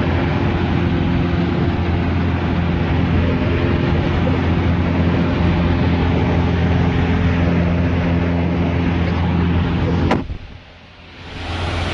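Cessna light aircraft's piston engine and propeller running steadily at high power, with a thick rush of air noise. About ten seconds in there is a click, the sound drops away sharply for a moment, and then it returns.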